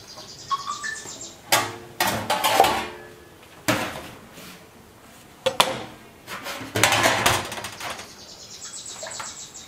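Kitchen dishes and utensils clattering: bowls and cutlery knocked and set down several times, in separate bursts of clinks and thuds.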